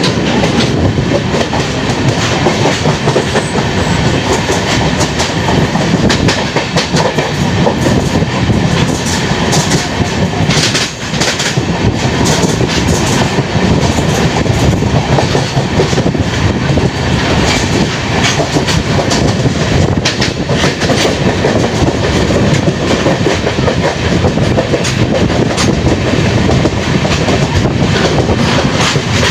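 Indian Railways express train running at speed, heard from on board: a loud, steady rumble of the coaches with wheels clicking over the rail joints.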